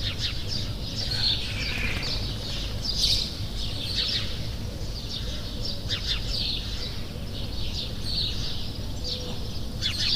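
Several songbirds chirping and trilling in a forest chorus, with quick overlapping calls throughout, over a steady low background hiss.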